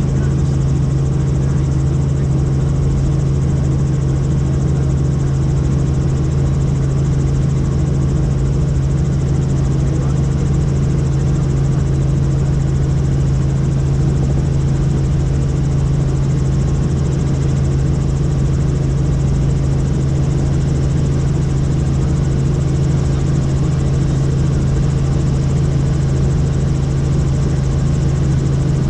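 Helicopter running: a loud, unbroken drone of engine and rotors with a strong steady low hum.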